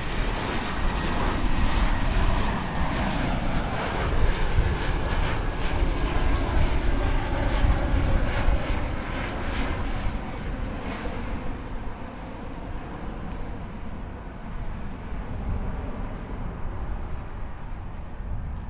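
Jet airliner's engines, loud for about ten seconds and then fading steadily as the aircraft moves away.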